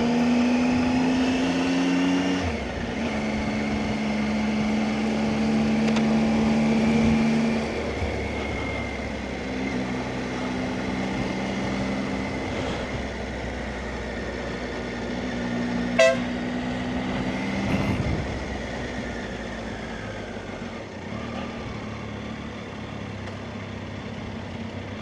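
Motorcycle engine running on the road, its note stepping up and down with the revs, with road and wind noise. There is a sharp click about 16 seconds in, and the engine drops lower and quieter after about 18 seconds as the bike slows.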